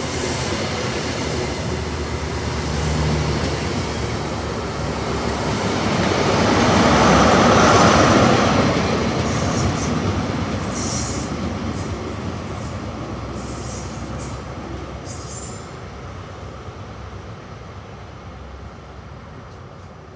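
Yellow test train passing through: coaches rushing by, the sound swelling to its loudest about eight seconds in as the yellow HST power car at the rear goes past, then fading steadily as the train draws away.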